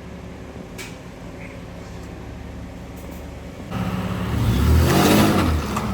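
A car engine idling steadily, then revving hard about two-thirds of the way in as the car pulls away, its pitch rising and then falling.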